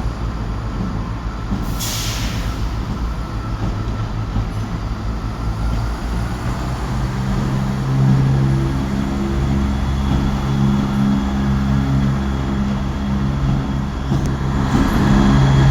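Diesel engines of a CrossCountry Class 170 Turbostar diesel multiple unit running in the station, a steady drone that grows louder about six seconds in and again about eight seconds in. A short hiss of air comes about two seconds in.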